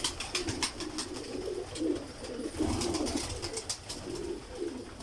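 Many domestic pigeons cooing together in an enclosed loft, a continuous low murmur, with scattered sharp clicks and taps from the birds moving in their cages.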